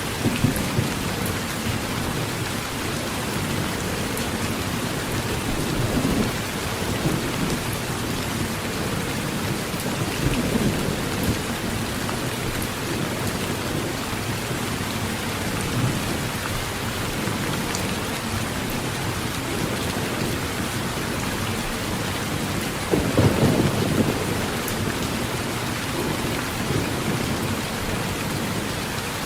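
Steady heavy rain drumming on a metal roof, with low thunder rumbles swelling now and then, the strongest about three-quarters of the way through.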